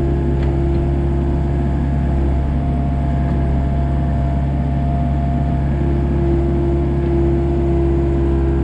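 Komatsu excavator's diesel engine running steadily while digging, with a whine that fades for a few seconds and then returns midway through.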